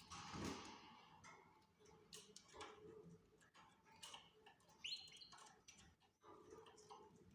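Faint canary sounds: soft scattered clicks and rustles, with one short, quickly rising chirp about five seconds in.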